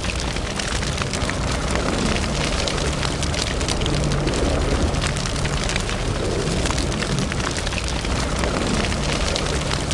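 Wood fire burning in a fireplace: a steady low rumble of the flames under frequent small crackles and pops.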